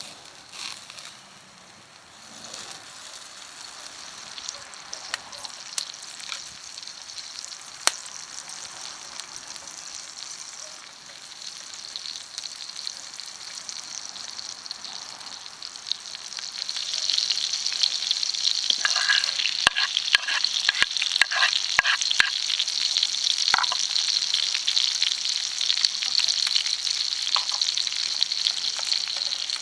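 Pork chops sizzling in a carbon steel frying pan. The sizzle grows much louder about halfway through, followed by a run of clicks and scrapes of a utensil against the pan.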